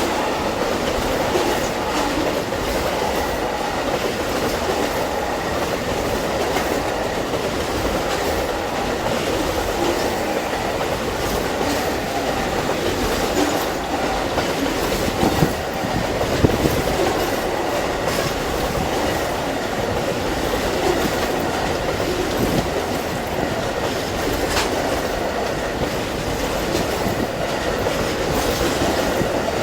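Amtrak Auto Train rolling steadily past, its long string of cars giving an even rumble of wheels on rail with clickety-clack over the rail joints.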